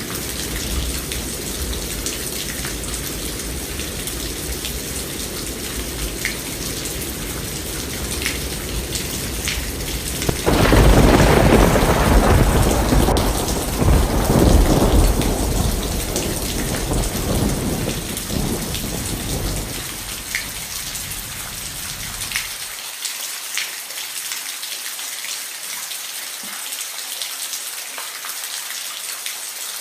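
Steady rain falling with a low rumble under it. About a third of the way in a loud thunderclap breaks and rolls on for several seconds, fading out. After it only the hiss of the rain is left.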